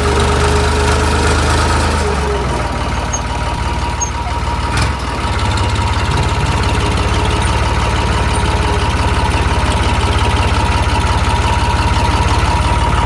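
Bulldozer engine running. Its note drops about two seconds in, there is a single sharp knock near five seconds, and then it settles into a steady, even throb.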